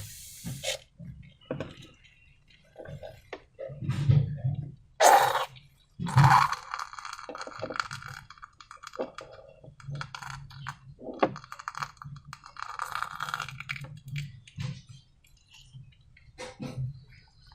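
Hands working slime and balloons with utensils and containers: irregular small clicks, taps, scrapes and sticky squelches, with no steady rhythm.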